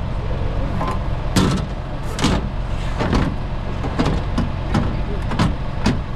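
A string of sharp knocks and clunks, about a dozen over six seconds, over a steady low engine hum.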